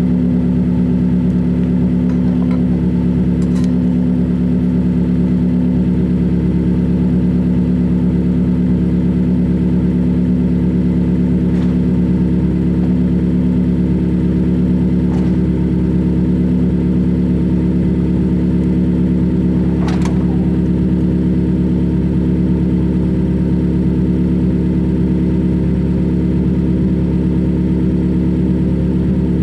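2020 Toyota Corolla LE's four-cylinder engine idling steadily through a straight-piped exhaust, warming up after a cold start. A few faint clicks are heard over the idle.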